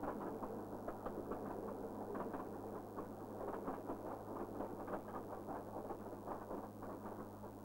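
Narrow-gauge train running, with irregular rattling and clatter from the wheels and carriages on the track over a steady low hum.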